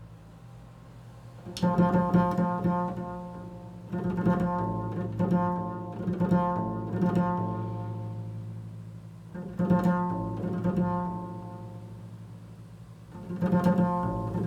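Improvised music: a stringed instrument struck in chords that ring and fade, in clusters of strikes, over a steady low drone.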